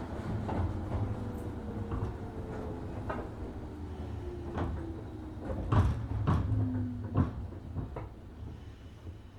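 JR 103 series 1500 subseries electric train slowing toward a stop, heard from inside the car: running rumble with a slowly falling whine and scattered knocks and clunks from the car body and running gear, growing quieter near the end.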